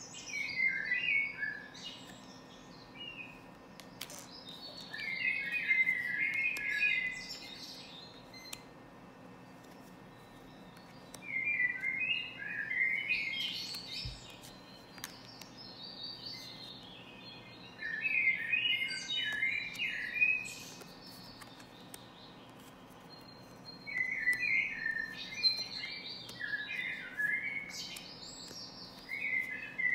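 Birdsong: a bird repeats a chirping phrase of a second or two, roughly every six seconds.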